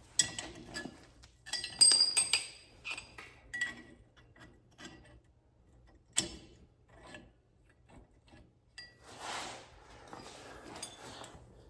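Small loose metal hardware, washers and bolt parts, clinking and ringing as it is picked up and handled. A single sharp knock comes about six seconds in, and a brief rustling noise follows a few seconds later.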